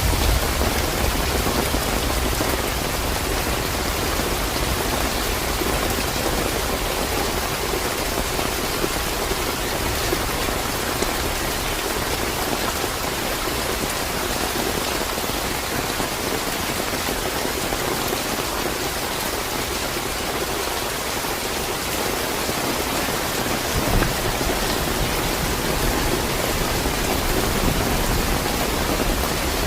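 Steady, fairly heavy rain falling, with a low rumble of thunder dying away in the first second.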